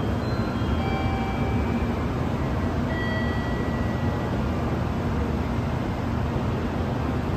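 N700A Shinkansen train at the platform, a steady low rumble and hiss with no change in loudness, and a few faint short tones at different pitches over the top.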